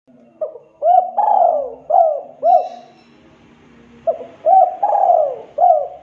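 Spotted dove (tekukur) cooing: two phrases of about four hooting notes each, the second starting about four seconds in, each with one longer drawn-out note among shorter ones.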